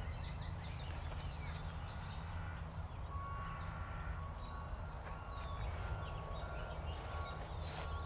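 Several songbirds singing, with quick high chirps and short gliding whistles throughout and a run of short, evenly repeated steady notes in the middle, over a low steady rumble.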